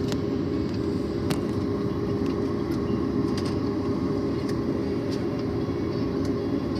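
Steady low rumble inside the cabin of a Boeing 737 MAX 8 taxiing after landing, with a constant hum over it and a few faint clicks.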